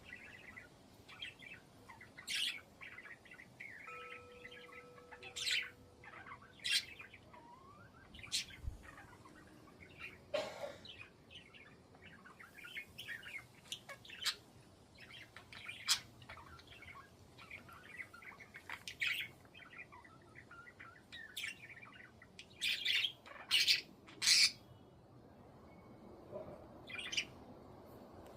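Pet budgerigars chirping and calling in short, scattered bursts, with a cluster of louder calls near the end.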